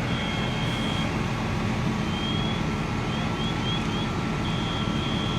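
Steady low diesel rumble of fire apparatus engines running at a working fire. Over it, a high-pitched tone sounds, first held for about a second, then in short rising chirps, then held again near the end.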